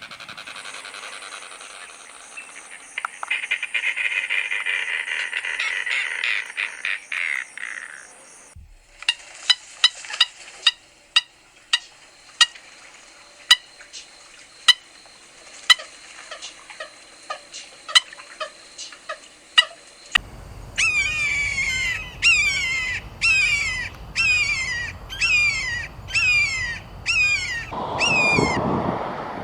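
Recorded wild bird calls from several different species played one after another: a dense high chatter, then sharp notes repeated about once a second, then a fast series of repeated falling high notes.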